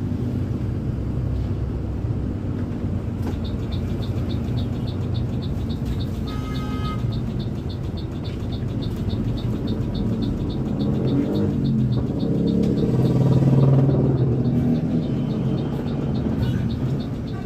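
Bus engine running steadily, then revving up about eleven seconds in and loudest near fourteen seconds. A fast, even high ticking runs through most of it.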